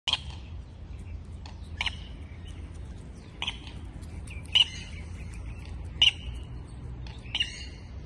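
A bird gives short, sharp calls about every second and a half, six in all, over a low steady rumble.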